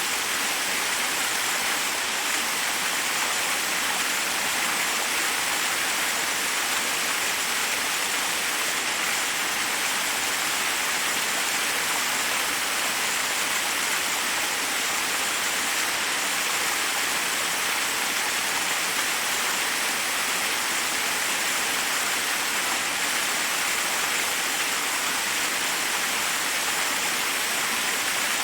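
Forest waterfall: water cascading over rocks in a steady, unbroken rush, strongest in the upper range.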